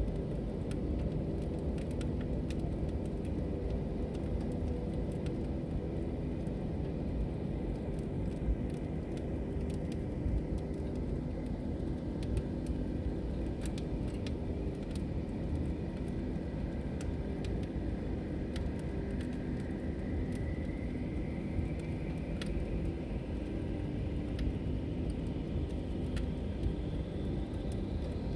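Log fire crackling, with scattered sharp pops and snaps over a steady low rumble. In the second half a faint thin whistle slowly rises in pitch.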